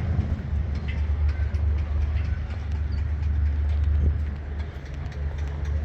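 A vehicle engine running: a low, steady rumble, dipping briefly near the end.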